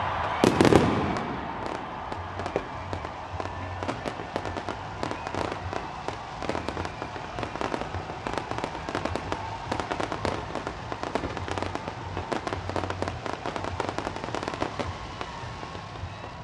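New Year fireworks: one loud bang about half a second in, followed by a long run of rapid, irregular small pops that thin out and fade near the end.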